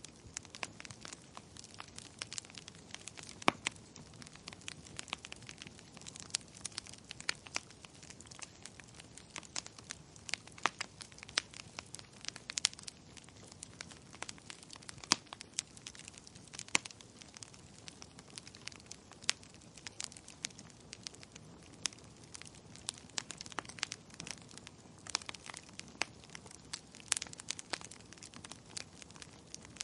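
Wood fire crackling in a fireplace: irregular sharp pops and snaps, a few much louder than the rest, over a soft steady hiss.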